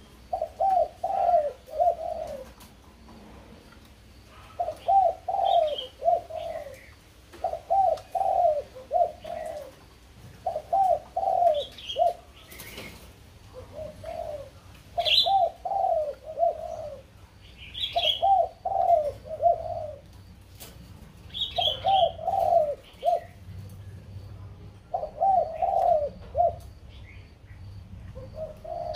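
Bird calling: a short phrase of three or four low cooing notes, repeated every two to three seconds, with faint higher chirps between the phrases.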